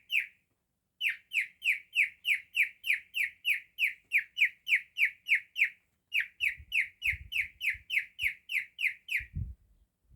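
Cockatiel calling in a rapid string of short, falling chirps, about four a second, in long runs with brief breaks about a second in and near six seconds, stopping shortly before the end. Soft low thumps under the calls in the second half.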